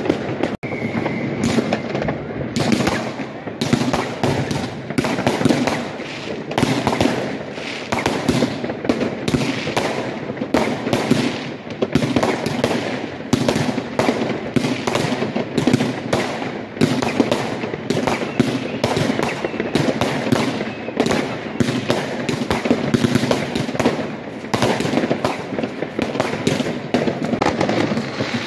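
Aerial fireworks going off in a dense, continuous string of sharp bangs and crackles, many bursting at once.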